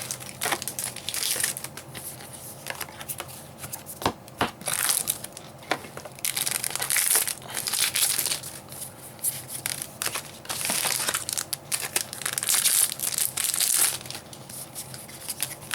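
Foil Cardfight!! Vanguard booster pack wrappers crinkling and being torn open, in repeated bursts with sharp clicks.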